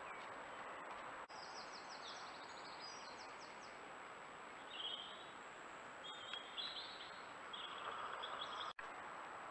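Woodland birds singing in short, rapid trills and chirps over a steady hiss, with a thin high tone underneath; the sound drops out for an instant twice.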